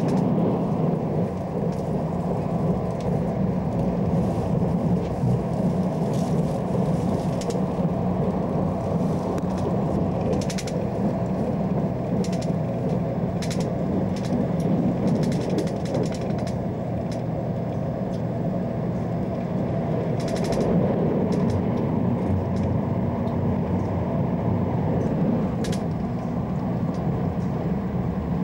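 Passenger train running at speed, heard from inside the carriage: a steady low rumble with a few faint clicks.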